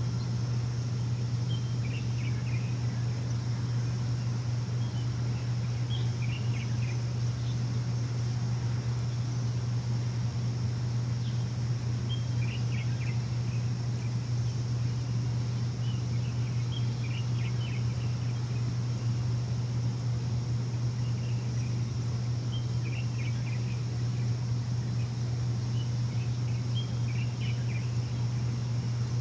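A steady, loud low machine hum, with a bird chirping in short bursts about every five seconds over it.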